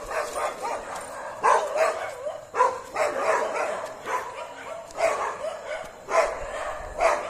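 A dog barking repeatedly, in sharp barks about a second or so apart.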